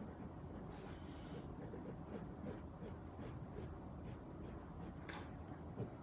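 Light, irregular scratching of a colouring pen stroking across cardstock while an image is coloured in, over a low steady background hum.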